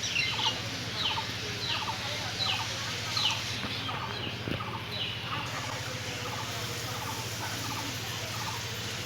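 A bird calling over and over in short falling chirps, a little under a second apart, fading out about five seconds in, over a steady low hum.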